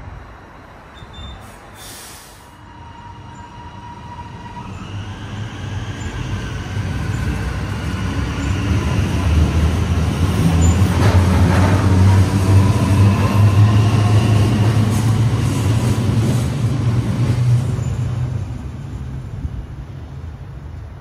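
Train running past, its low rumble building over several seconds to a peak about halfway through and then fading away, with faint steady whining tones above the rumble.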